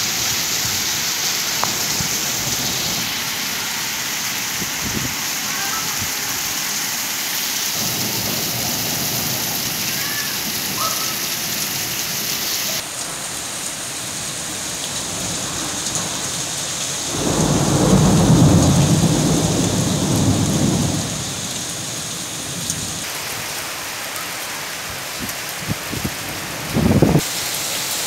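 Steady hiss of heavy rain. A loud low rumble swells up about two-thirds of the way through and lasts around four seconds, and a short loud burst comes near the end.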